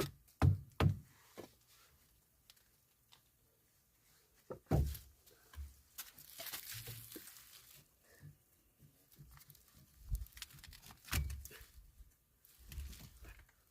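Hand work with tools: a quick run of sharp knocks, about two a second, then scattered thuds and a brief scraping rustle.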